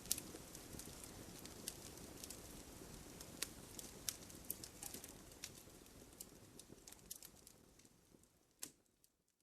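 Fire crackling in a fireplace: scattered sharp pops and snaps over a low hiss. The sound fades out over the last few seconds, with one last louder pop just before it goes silent.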